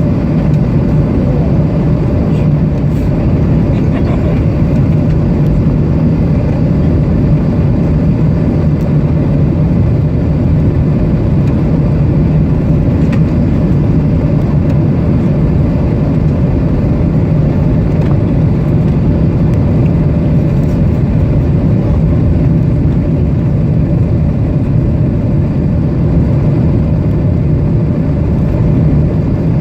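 Steady, loud drone inside the cabin of a Boeing 737-800: its CFM56 jet engines and airflow, with a constant low hum and no change in level.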